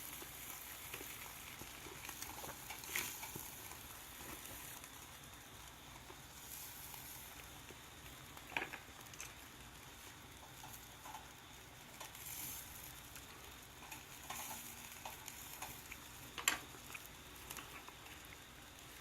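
Meat sizzling on a grill over an open fire pit: a faint steady sizzle with a few sharp pops, the loudest about halfway and near the end.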